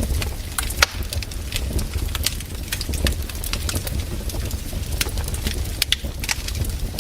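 Wood campfire crackling, with many irregular sharp snaps and pops, a few louder ones, over a steady low rumble.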